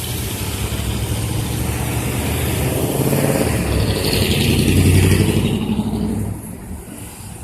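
A car driving past close by, its engine and tyres growing louder to a peak about five seconds in and then fading away.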